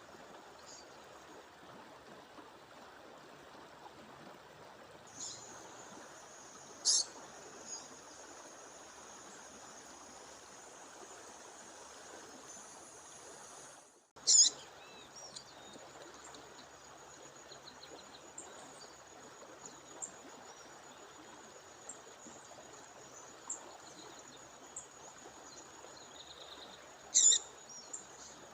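Steady rush of a waterfall or stream, with a thin continuous high whine above it. A female bird gives a few short, sharp, high calls, about a quarter of the way in, at the halfway point, and near the end.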